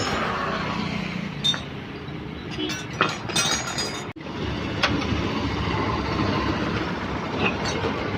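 Scattered metallic clinks of tools and engine parts being handled, over a steady background rumble, with a momentary break about four seconds in.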